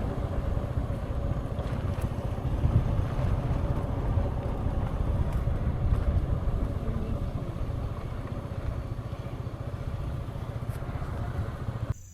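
Motor scooter engine running steadily while riding, with road and wind rush on the microphone; it cuts off abruptly near the end.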